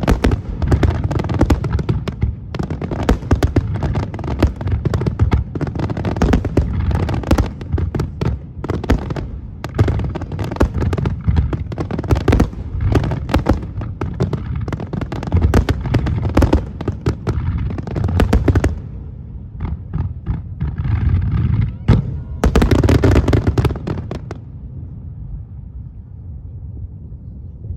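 Aerial fireworks bursting in a rapid, dense barrage of bangs and crackles, thinning out after about 18 seconds into a few last loud bursts that stop about 24 seconds in, leaving a low rumble.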